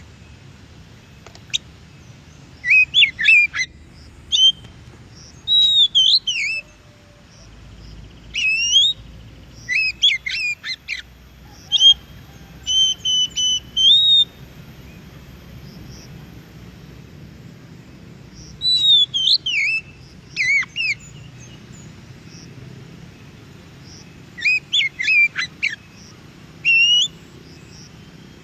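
Oriental magpie-robin (kacer) singing: short bursts of clear whistled phrases with notes sliding up and down, broken by pauses of a second or more, with a longer gap in the middle, over a faint low background rumble.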